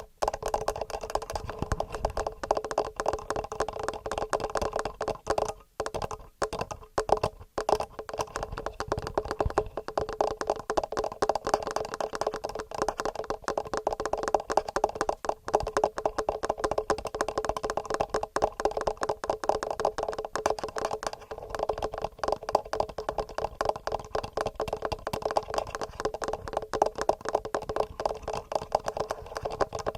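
Fast, continuous fingernail tapping on a TASCAM recorder and its microphone, many taps a second. A few short pauses break it in the first eight seconds.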